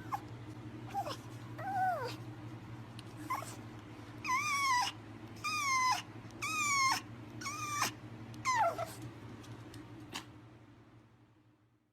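A pet animal crying out repeatedly: about eight short high-pitched calls, each falling in pitch at its end, the loudest coming one after another around the middle, over a steady low hum.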